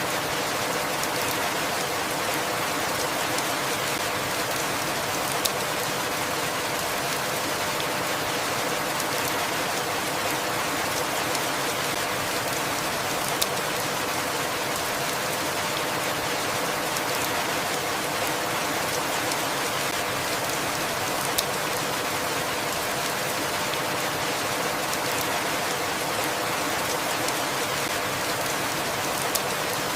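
Steady rainfall, an even patter, with an occasional sharper tick every several seconds.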